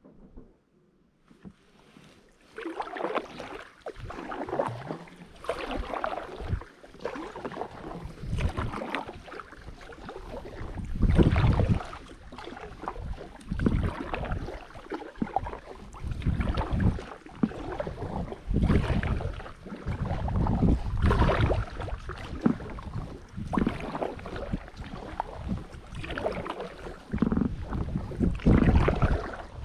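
Kayak paddle strokes: a double-bladed paddle dipping and splashing in the water in a steady rhythm, starting about two seconds in, with wind rumbling on the microphone.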